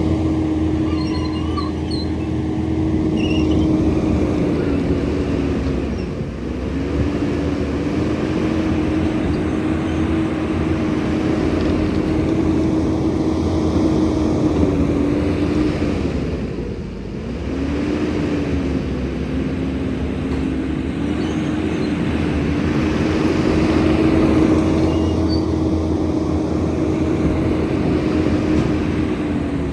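Diesel engine of a skid steer running at high revs while working, its pitch sagging under load about six seconds in and again past the halfway point, then picking back up.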